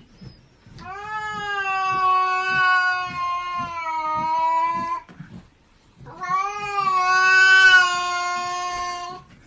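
A domestic cat giving two long, drawn-out calls, each lasting three to four seconds, held nearly steady in pitch with a slight sag, separated by a short pause.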